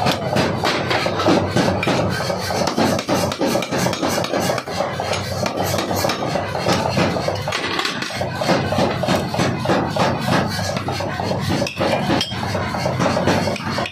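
75 kg pneumatic forging hammer pounding steel in a fast, continuous run of blows, as in drawing out a 3 kg axe head.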